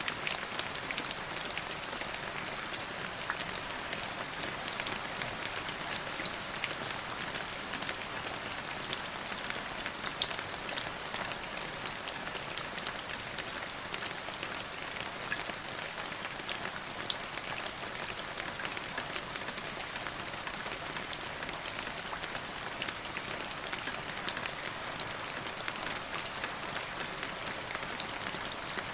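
Steady rain falling on a hard surface: an even hiss dotted with the ticks of single drops.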